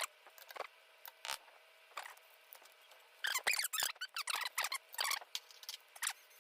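Small metallic clicks and scraping from hand work on a windproof lighter's lid hinge. The clicks come singly at first, then in a quick run of ticks and scrapes about three seconds in.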